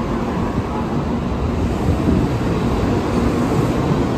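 Shinkansen bullet train running: a steady, loud rushing rumble.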